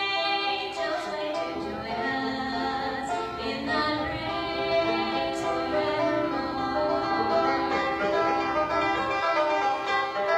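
A woman singing a country gospel song in long held notes, over plucked-string accompaniment.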